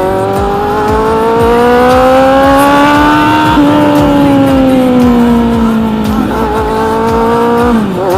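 Kawasaki Z800 superbike's inline-four engine revving, its note climbing steadily for about three and a half seconds, then sinking slowly and dropping away sharply near the end.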